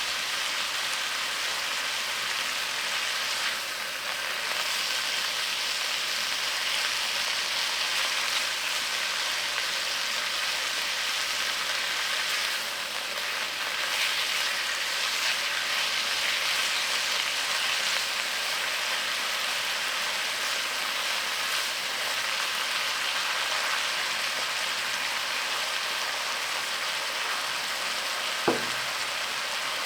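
Food sizzling steadily in hot oil in a pan, with light stirring noises now and then and a single sharp knock near the end.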